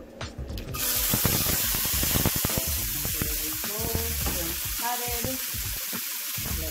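Shrimp sizzling in a hot frying pan. The sizzle starts suddenly about a second in, crackling and spitting at first, then goes on as a steady hiss.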